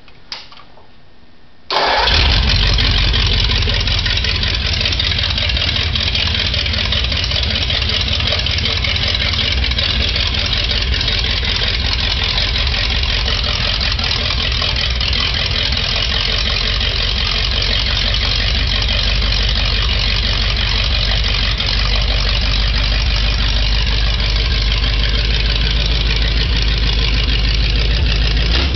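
Ford 59AB flathead V8 with a full-race Isky 88 cam and dual 94 carburettors firing up suddenly about two seconds in, then running steadily and loud through short open exhaust stacks.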